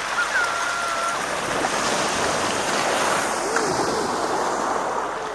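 Sea waves washing onto the shore in a steady rush, with a few faint high calls over it near the start and about halfway through.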